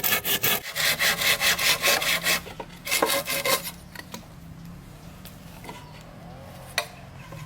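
Hand saw cutting through wood in quick, rhythmic strokes that stop about two and a half seconds in, with a brief second run of strokes just after. A quieter stretch follows, with a few light knocks and one sharp click near the end.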